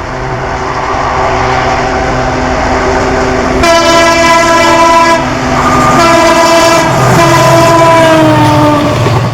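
EMD WDP 4B diesel locomotive accelerating away, its engine growing louder, with two horn blasts about a second apart. The second blast is longer and drops slightly in pitch near its end.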